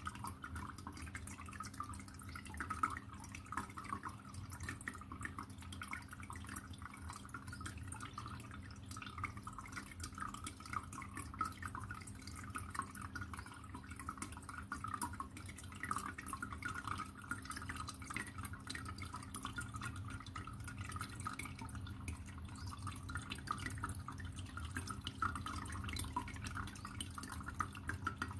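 Water trickling and dripping steadily in a continuous patter of small splashes, over a low steady hum.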